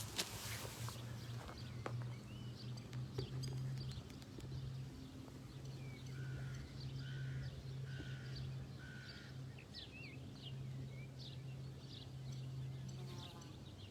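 Several birds chirping and calling, with four similar short notes repeated at an even pace midway, over a steady low hum.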